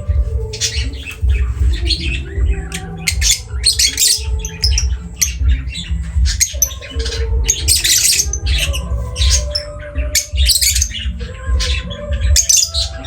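Lovebirds squawking in quick, harsh, high-pitched calls, one after another without a break, over background music.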